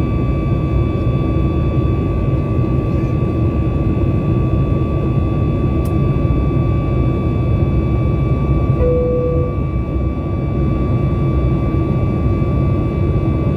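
Inside the cabin of a Boeing 737 MAX 8 in flight: the steady rumble of its CFM LEAP-1B engines and airflow, with steady whine tones over it. A short tone sounds briefly about nine seconds in.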